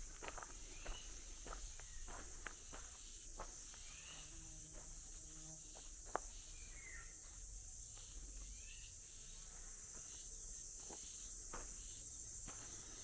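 Faint, steady high-pitched insect chorus, like crickets, with scattered footsteps and a few short chirps.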